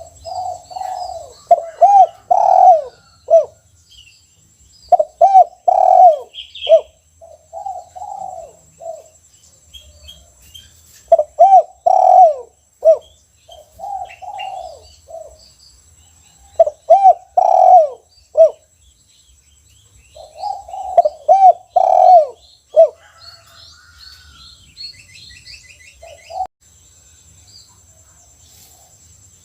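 Spotted dove (tekukur) of the 'kuk 1' song type, cooing its song in repeated phrases about every five or six seconds. Faint high chirps and a thin steady high whine sit behind it.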